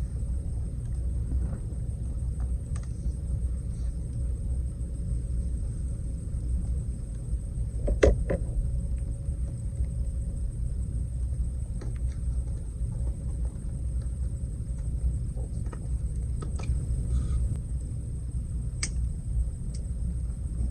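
Wood campfire crackling, with scattered sharp pops, the loudest about eight seconds in, over a steady low rumble.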